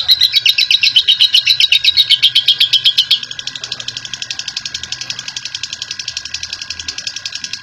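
Lovebird giving its long, rapid 'ngekek' chatter: a fast, even run of high notes, about nine a second. It is loud for the first three seconds, then carries on at a lower level.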